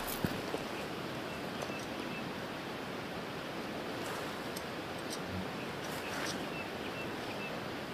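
Steady outdoor rushing noise with scattered small clicks and a few faint, short, high chirps.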